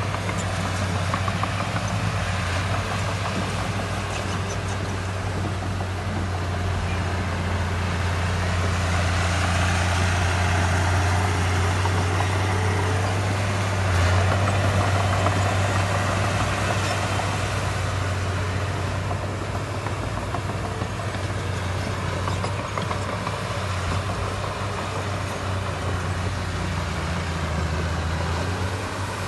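Heavy diesel engine of earthmoving equipment running steadily at a low hum. It grows louder and rougher for several seconds in the middle, with one knock about halfway through.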